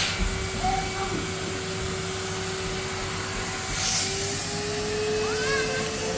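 Henry canister vacuum cleaner running steadily, a rush of air over a held motor tone that rises slightly about four seconds in.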